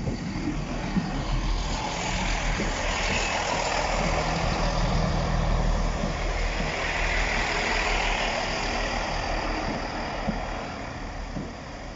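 A Class 158 diesel multiple unit passing close by, with its diesel engines running under the carriages and its wheels rumbling and knocking on the rails. It is loudest through the middle as the carriages go past and fades near the end.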